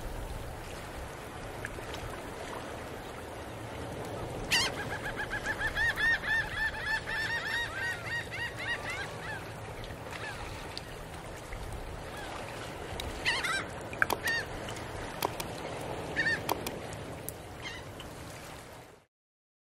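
Bird calls over a steady background hiss: a quick run of repeated, pitched calls, several a second, for about five seconds, then a few short scattered calls.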